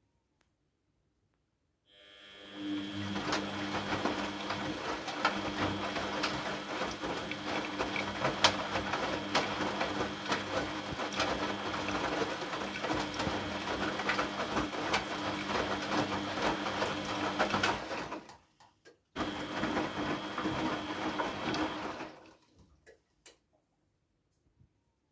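A small electric machine motor running, a steady hum with rapid clicking and rattling over it. It cuts out briefly, starts again for a few seconds, then stops.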